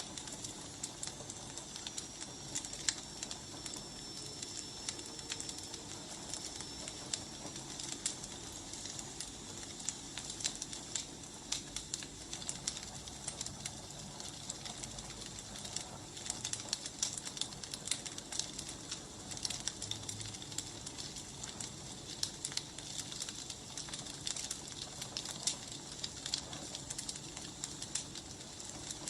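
Wood fire burning, crackling with frequent sharp pops over a steady hiss. A thin high whistle sounds from about a second in and fades after several seconds.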